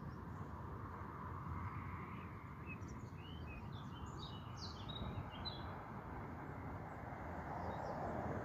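Small birds chirping, a quick run of short high chirps about three to five and a half seconds in, over a steady low outdoor rumble.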